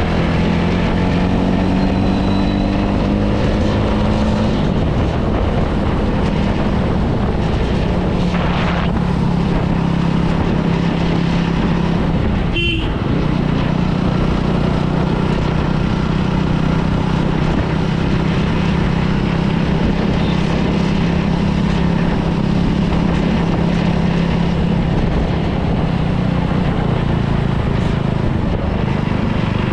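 Superbike engine running at low, steady revs, its pitch drifting slightly up and down, with a brief break in the sound about halfway through.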